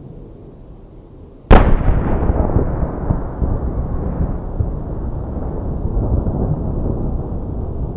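A large aerial firework shell bursting with one sharp, loud bang about a second and a half in, followed by a long low rolling rumble of echo and further bursts.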